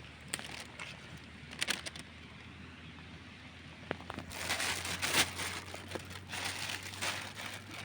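Rustling and crackling of leaves and undergrowth in the jungle: a few sharp snaps early on, then from about halfway a longer stretch of uneven rustling that comes in surges.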